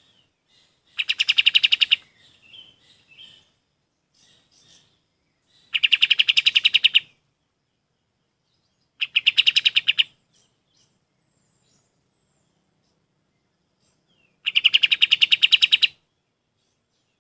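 Kapas tembak bulbul singing four loud, rapid trills, each a fast string of the same note lasting about a second. Soft scattered chirps come between the first two trills.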